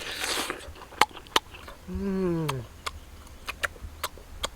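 A person eating, chewing with repeated wet clicks and lip smacks. There is a short breathy rush at the start, and about two seconds in a brief falling hum or grunt.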